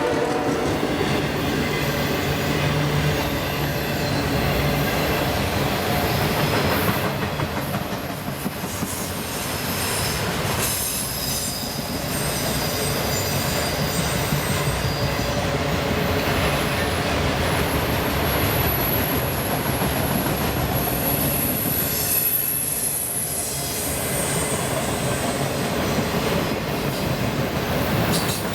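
A CSX freight train rolling past: the steady rumble and rattle of freight cars on the rails, with high-pitched wheel squeal heard twice, the second time for several seconds.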